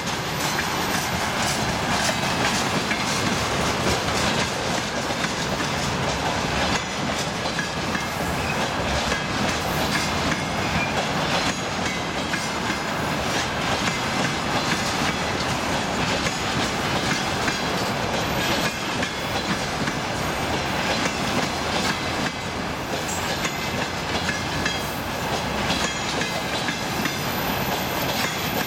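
Railway tank cars of a freight train rolling past, a steady rumble of steel wheels on rails with an irregular clickety-clack over the rail joints.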